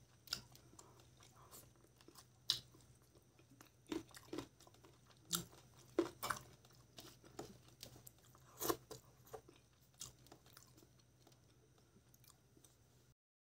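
Close-miked eating sounds of a person eating rice and chicken curry by hand: irregular wet chewing and mouth smacks, a few much louder than the rest, with fingers scraping a steel plate. The sound cuts off just before the end.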